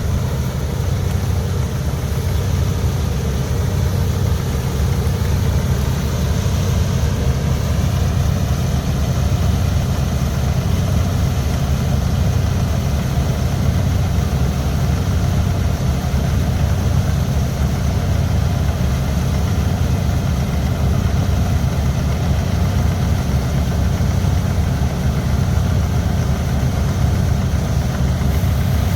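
Heavy diesel engine of farm machinery running steadily at constant speed, with a deep, even hum.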